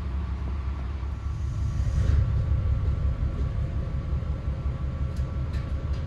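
Komatsu diesel engine of a KiHa 40/47 railcar idling with a steady low rumble, swelling slightly about two seconds in.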